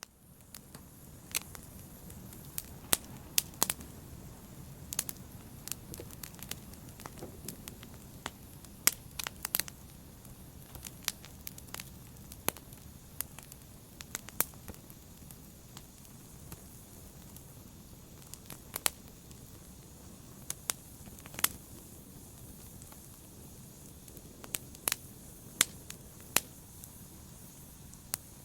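Wood fire burning in a fireplace, with a steady low rush of flames and irregular sharp crackles and pops, a few of them much louder than the rest. The sound sets in abruptly at the start.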